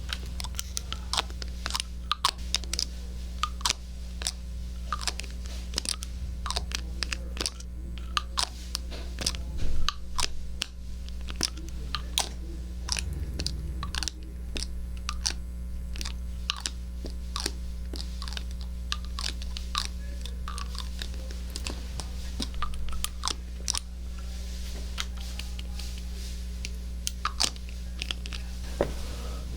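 Close-miked ASMR triggers into a 3Dio binaural microphone: irregular crisp clicks and crackles, several a second, over a steady low hum.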